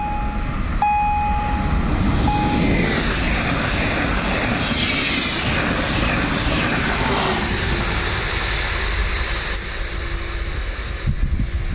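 Electric multiple-unit passenger train passing through the station: a rush of wheel and air noise builds to a peak mid-way with a falling whine as it goes by, then eases off. The level crossing warning signal beeps for the first couple of seconds.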